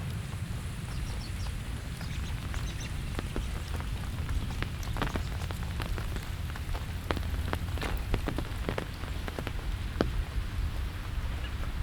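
Steady rain with many close, sharp drops striking surfaces at irregular moments, thickest in the middle of the stretch, over a steady low rumble.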